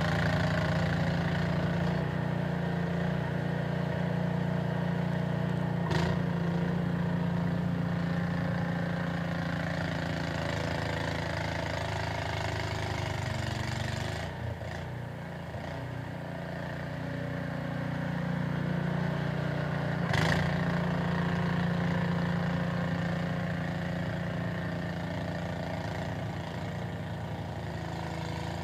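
Small engine, most likely a snowblower's, running steadily under varying load, its level sagging briefly around the middle before picking up again. Two sharp knocks, about six seconds in and about twenty seconds in.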